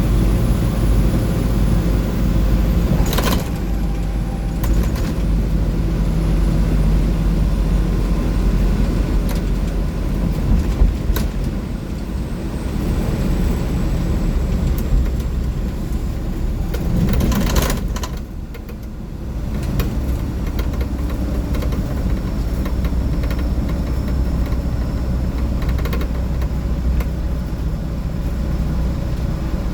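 Navistar DT466E inline-six diesel and road noise heard from inside a Blue Bird bus cruising at highway speed: a steady low drone with light rattles from the body. A louder jolt comes about three seconds in, and another a little past halfway, just before the sound dips briefly.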